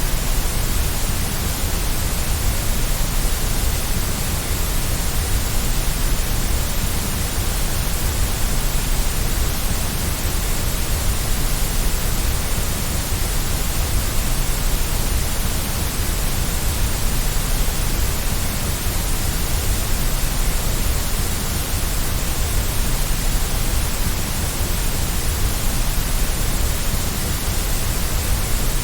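Steady white noise: an even, unchanging hiss with a low rumble underneath.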